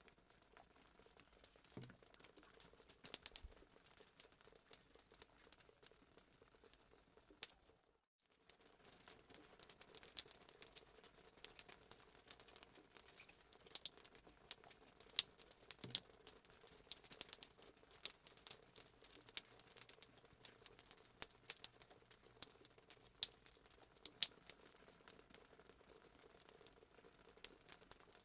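Fireplace sound effect: a wood fire crackling with frequent, irregular sharp pops. The sound cuts out completely for a moment about eight seconds in.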